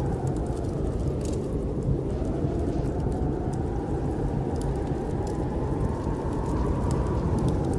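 Snowstorm wind blowing steadily, with a faint howl that slowly rises and falls in pitch, over scattered light crackles from a wood fire.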